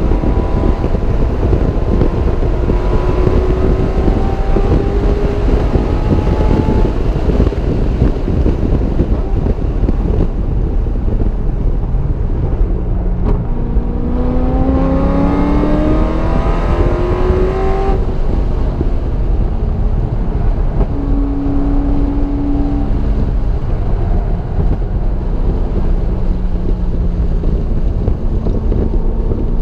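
Car engine heard from on board at track speed, its pitch climbing as it accelerates and dropping or cutting off between gears, over heavy wind and road noise. One long pull ends abruptly about eighteen seconds in.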